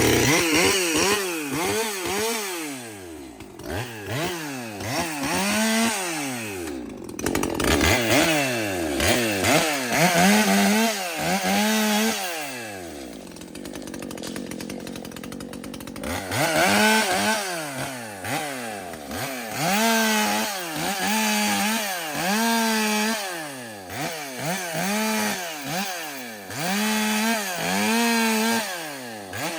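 Ported Echo CS-620PW chainsaw revved over and over, its pitch rising and falling with each squeeze of the throttle and easing off for a few seconds midway. Its high-speed needle has just been backed out to richen the tune after it ran too lean.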